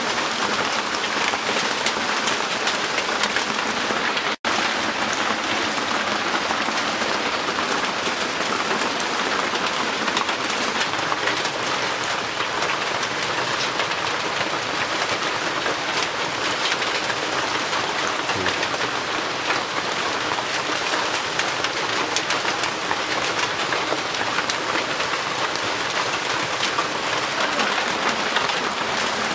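Heavy rain drumming steadily on a roof, a dense even patter, which cuts out for an instant about four seconds in.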